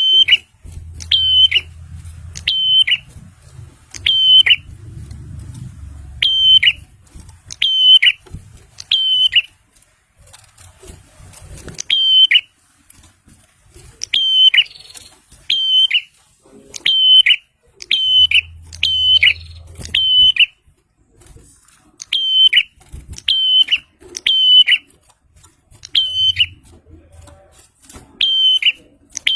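Prinia (prenjak) calling: a loud, sharp, high note repeated over and over, roughly once a second, each note with a quick downward hook at its end.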